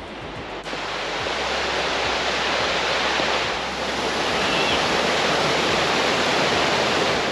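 Steady rushing of Mackenzie Falls, a large waterfall pouring into a gorge, growing louder over the first couple of seconds.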